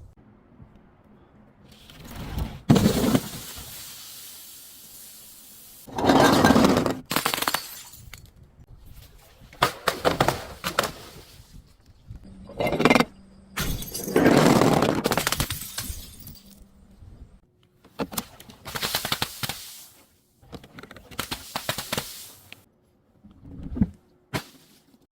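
Glass bottles being smashed and crushed: about ten separate crashing, crunching bursts of breaking glass at irregular intervals, some short and some drawn out over a second or two.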